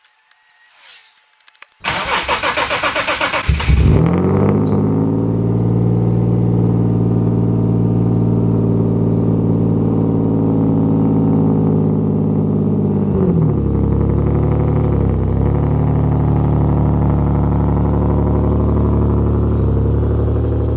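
Cold start of a single-turbo 2012 Nissan 370Z's V6 with a Tomei exhaust. The starter cranks for about a second and a half, the engine catches with a loud flare and settles into a fast cold idle, and about 13 s in the idle drops to a lower, steady pitch.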